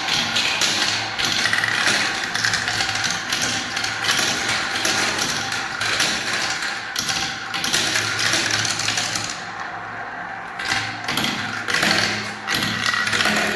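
Many small balls rolling and clattering down a marble-run spiral ramp: a dense, continuous rattle of quick clicks that thins out in the last few seconds.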